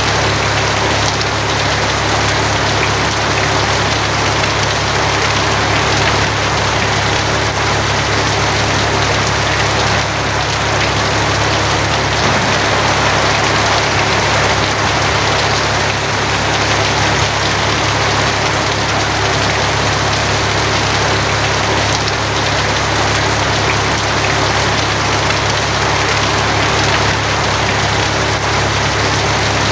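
Steady heavy rain falling on a tin roof, an even wash of drops with no single strikes standing out, over a steady low hum.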